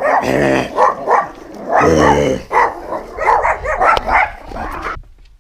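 A dog barking and yelping repeatedly, loud and close, in a run of short calls that cuts off suddenly near the end.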